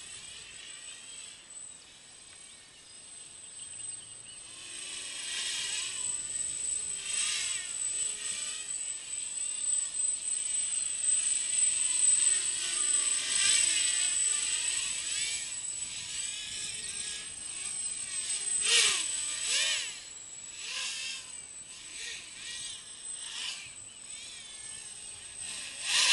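Small 200mm quadcopter with DYS 3100kv brushless motors flying, its propellers buzzing and whining. The sound swells and fades as the throttle and the craft's distance change, loudest around the middle and again about three quarters through.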